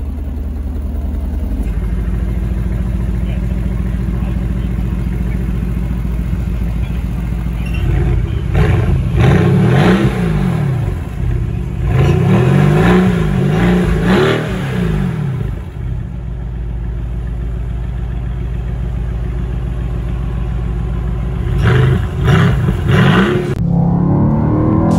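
Mercedes-AMG GT R's twin-turbo V8 idling through its centre exhaust, then revved repeatedly about eight seconds in, with the pitch rising and falling for several seconds. It settles back to idle, then is blipped twice near the end.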